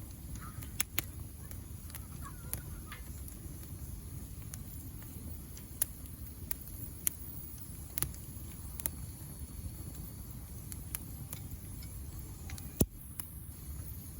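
Wood campfire burning with irregular sharp crackles and pops over a steady low rumble of the flames, the loudest pop near the end.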